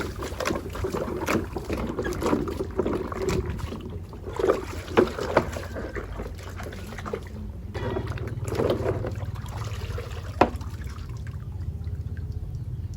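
Water splashing and trickling while a muddy plastic toy truck is washed by hand, with scattered knocks and splashes.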